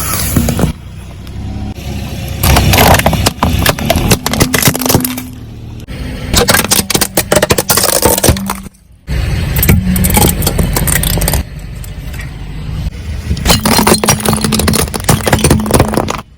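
Car tyres rolling over and crushing brittle objects: dense crackling and snapping over a low engine hum, in several separate takes cut together.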